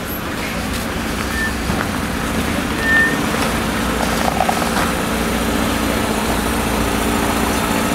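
Car engine idling steadily, with two brief high beeps about a second and a half and three seconds in.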